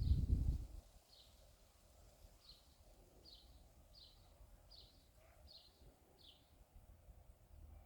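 A bird calling a run of about eight short downward-slurred notes, roughly one every 0.7 seconds. A brief low rumble comes at the very start.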